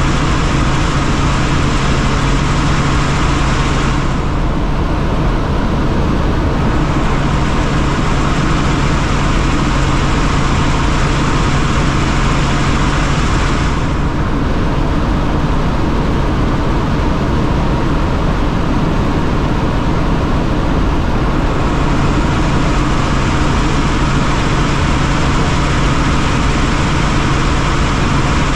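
Helicopter in flight: a loud, steady drone of engine and rotor with a constant low hum under a broad hiss. The higher hiss eases off for a couple of seconds about four seconds in and again for several seconds from about fourteen seconds.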